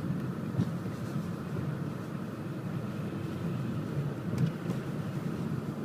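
Steady low drone of a Mercedes-Benz car driving, engine and tyre noise together, with a few faint clicks.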